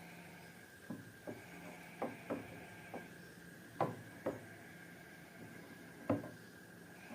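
Slime being handled and pressed, giving a series of short, soft sticky pops and clicks at irregular intervals, about eight in all, the loudest near the middle and toward the end.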